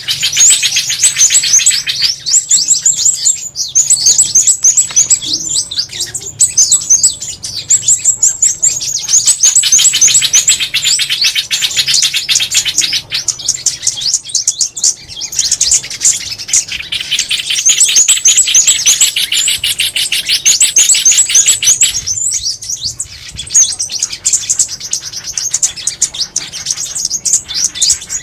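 Small songbirds calling, the mixed lure calls named as trao trảo, ốc mít and sunbird: dense, rapid, high-pitched chirps and trills repeated in phrases, with brief pauses between runs.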